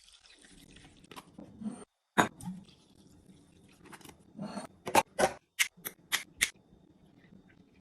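Sharp clicks and taps of food containers and lids being handled while restocking a fridge: one knock about two seconds in, then a quick run of about six clicks over the next couple of seconds, with faint rustling between.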